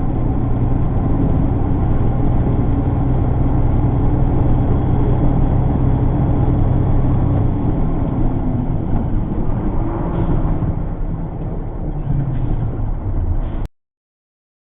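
Car driving: a steady engine and road-noise drone, its pitch shifting about ten seconds in, then cut off abruptly near the end.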